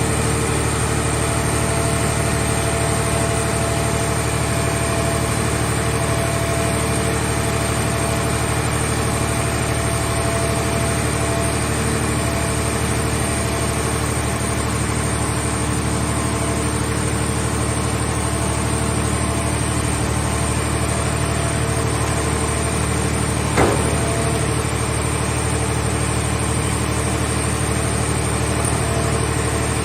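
Power unit of a scrap car-shell baler running steadily with an even hum and a faint whine, then a single short knock late on.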